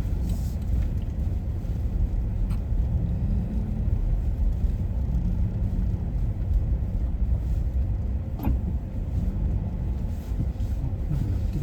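A steady low rumble with a faint wavering hum, and a single click about eight seconds in.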